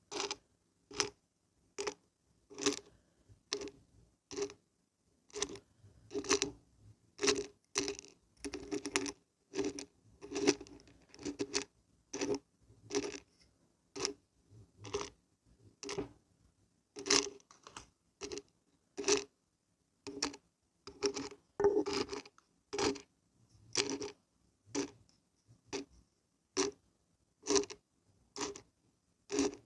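Dried beans and barberries shaken back and forth, rattling in short bursts at about one shake a second, busier for a few seconds near the middle.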